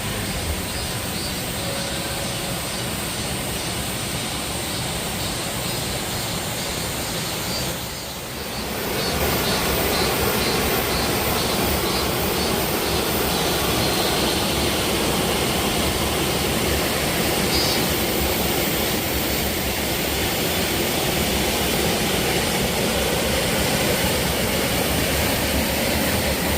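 Steady rushing of a waterfall's falling water. It dips briefly about eight seconds in, then comes back louder and holds even.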